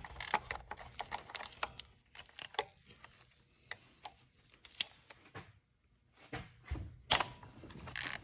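Hand tools being handled: a string of light metal clicks and clinks, with a short pause a little past halfway and a louder clatter near the end.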